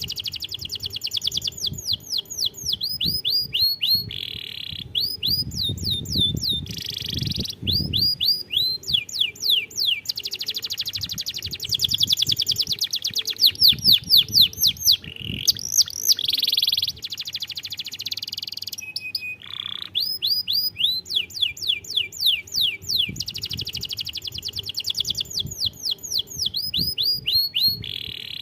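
Domestic canary singing a long, continuous song: fast runs of quick downward-sweeping notes repeated many times a second, switching every few seconds to buzzier rolling trills and then back again.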